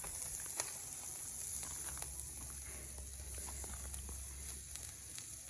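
Wood fire burning with scattered small crackles and pops from freshly added oak logs, over a faint steady hiss.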